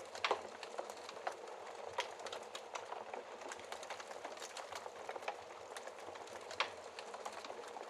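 Wood fire crackling in a fireplace: a steady soft hiss of burning, broken by many small pops and snaps. The loudest pops come just after the start, about two seconds in, and late on.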